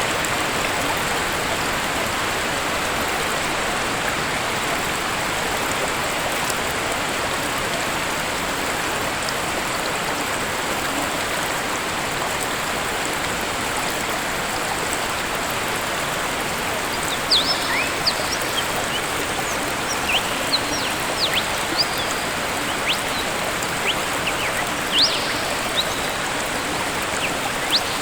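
Waterfall's steady rush of falling water, with short, high bird chirps coming in over the second half.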